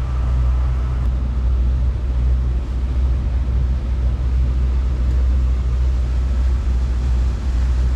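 A 23 ft tri-toon boat cruising under power: a steady, loud low rumble from the motor and the passing water and air.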